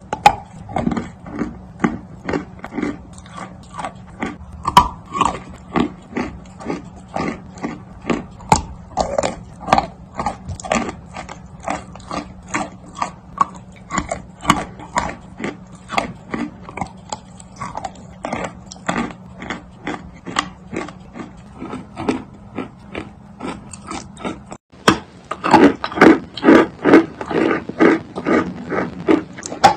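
Close-miked chewing of chalk, with crisp crunches at about two a second over a faint steady hum. After a short break about 25 s in, the chewing gets louder and lower, at about three chews a second.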